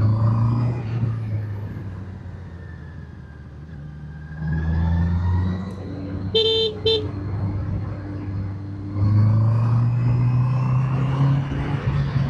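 Motorcycle engine running while riding, pulling harder twice as the throttle opens. About halfway through, a horn gives two short toots.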